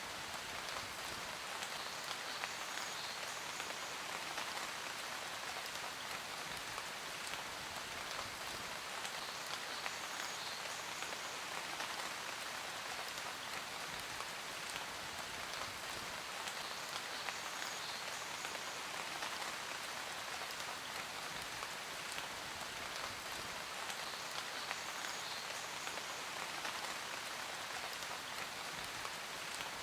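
Steady rain falling on a surface, a dense, even hiss of many small drop impacts with no change in strength. A faint higher patter recurs about every seven and a half seconds.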